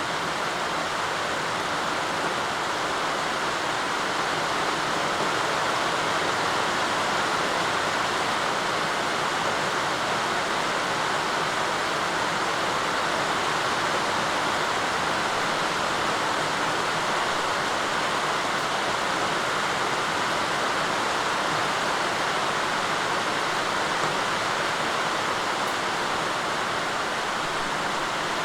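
Steady, even rain falling, heard as a dense hiss with no distinct drops standing out.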